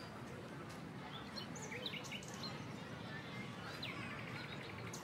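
Steady low background noise with scattered faint bird chirps and a short rapid trill near the end.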